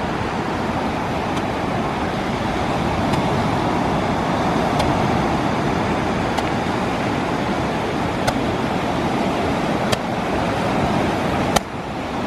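A handheld firework tube firing shots at a steady pace, a sharp pop about every second and a half, over a steady rushing noise.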